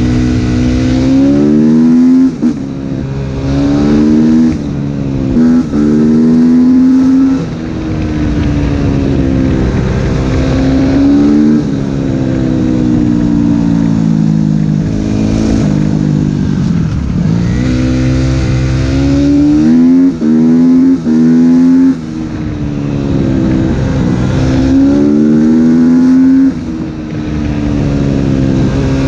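Suzuki RM-Z250 four-stroke single-cylinder engine with an open Akrapovič exhaust, ridden hard: its pitch climbs, drops back, and climbs again over and over, with several short throttle cuts.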